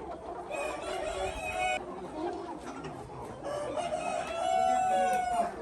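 Domestic rooster crowing: a shorter call about half a second in, then a longer, louder crow near the end that holds its final note.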